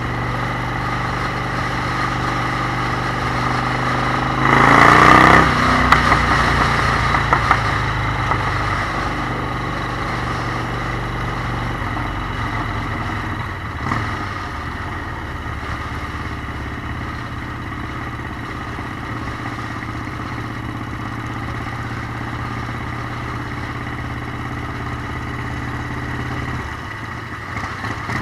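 Motorcycle engine running steadily while riding, with a brief loud rush of noise about five seconds in and a few sharp pops just after. Near the end the engine note drops, as if easing off.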